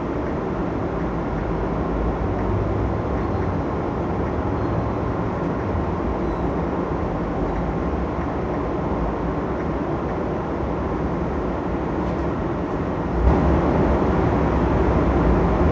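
Steady rumble and rushing noise of a moving train. It gets louder, with a heavier low rumble, about thirteen seconds in.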